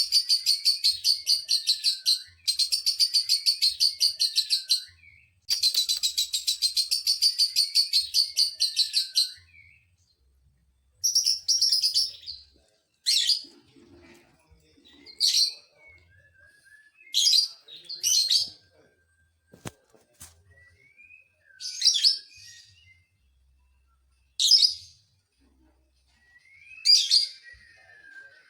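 Lovebird chattering in a long, fast trill of rapid high chirps, the 'ngekek panjang' that bird-keepers prize. It runs in three long stretches over the first nine seconds, then breaks into single short shrill calls every second or two.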